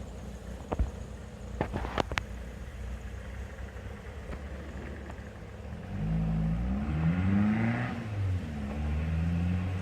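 Air-cooled VW Beetle engine running low and steady, with a few sharp clicks in the first two seconds. About six seconds in it picks up, its pitch rising and falling as it is revved, running on a freshly installed Magnaspark II electronic distributor.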